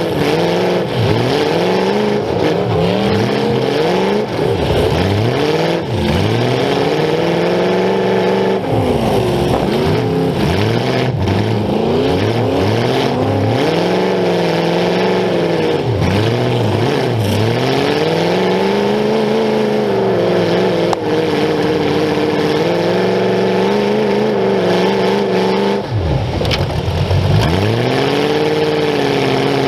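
Demolition derby car's engine, heard up close through open exhaust pipes poking through its hood, revving up and down over and over, its pitch rising and falling every second or two. A few brief knocks cut in along the way.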